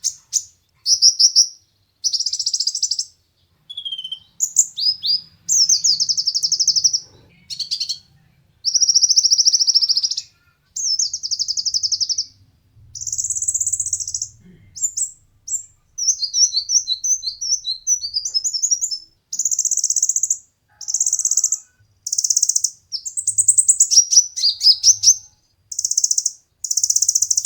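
Brown-throated sunbird (kolibri ninja) singing: a steady run of high, rapid trilled phrases, each about a second or two long, separated by short pauses.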